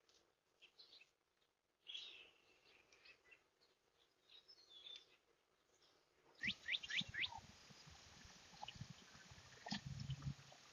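Faint bird chirps, with a quick run of four sharp sweeping chirps a little past halfway, over a low hiss and a few soft low thumps near the end.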